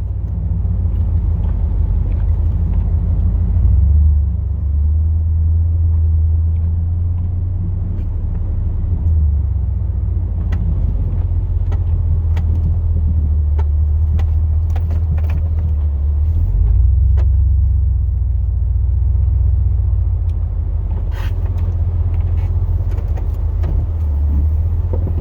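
2002 Chevrolet Silverado plow truck's 8.1-litre big-block gas V8 running while driving, a steady low drone that shifts in pitch a few times. Faint clicks and rattles are scattered over it.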